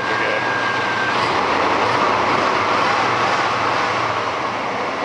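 Chevy 350 small-block V8 in a 1988 Silverado running steadily after a tune-up with a new plug, distributor cap, rotor and fuel filter. A thin steady whine stops about a second in.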